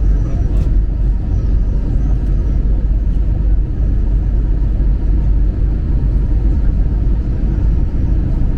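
Steady low rumble of an Airbus A321's cabin on approach: engine and airflow noise heard from inside the passenger cabin, even in level throughout.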